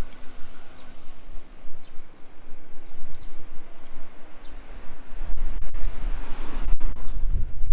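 Outdoor ambience with wind buffeting the microphone, turning into a heavy, gusty rumble about five seconds in, under a hiss that swells and fades near the end.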